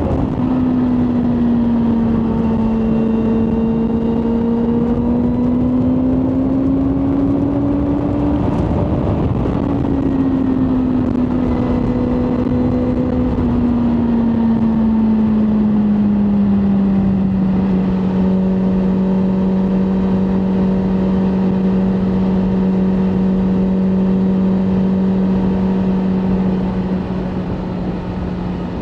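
BMW M1000R Competition's inline-four engine under way with a rushing noise behind it. The pitch climbs slowly, breaks off about nine seconds in as if for a gear change, then eases down and settles into a steady cruising note for the second half.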